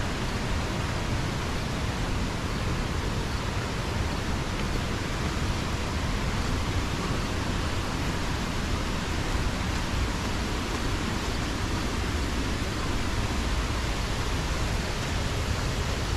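Waterfall: water rushing in a loud, steady, even roar with no breaks.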